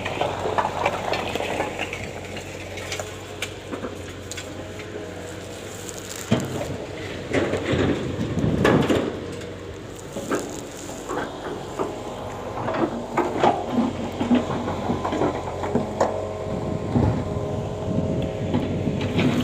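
Irregular knocks and clatter of demolition work, hammering and breaking up the old station building.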